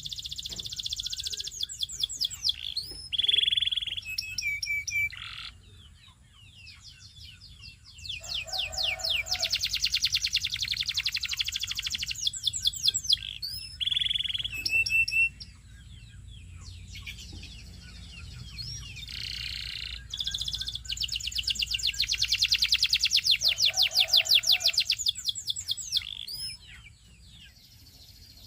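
Canary singing a long song of rapid high trills, sweeping notes and a few lower rolling notes, in three phrases with short pauses between. The song stops shortly before the end.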